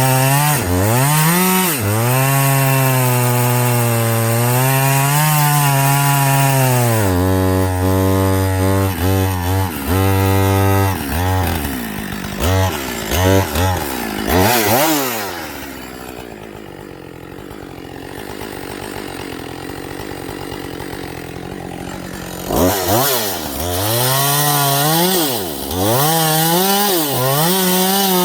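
Husqvarna 562 XP two-stroke chainsaw cutting wood at high revs, its pitch sagging and recovering under load, then dropping to idle for several seconds in the middle before revving up and cutting again near the end. The sound is that of a saw working with a dull chain that should be replaced.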